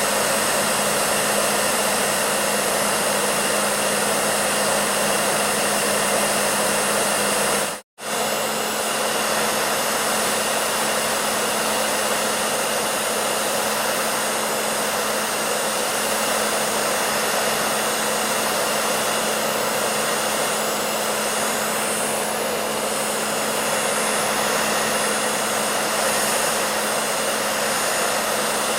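Hair dryer running steadily, a constant rush of blown air over a low, even motor hum. The sound drops out completely for an instant about eight seconds in, then carries on unchanged.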